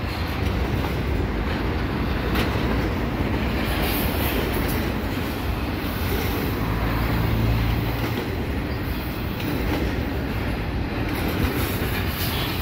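Double-stack intermodal freight train's loaded well cars rolling past at speed: a steady rumble of steel wheels on rail, with a few sharp clicks.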